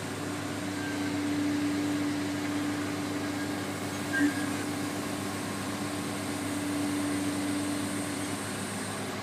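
Sierra shear baler logger running steadily, a continuous machine hum with one strong low tone, and a single short knock about four seconds in.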